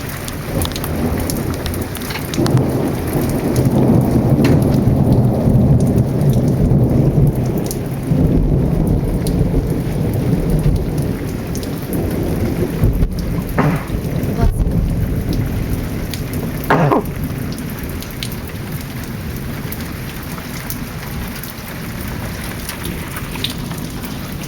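Heavy rain falling steadily, with a long rolling thunder rumble that builds about two seconds in, stays loud for around ten seconds, then dies away. Two short, sharper sounds stand out partway through.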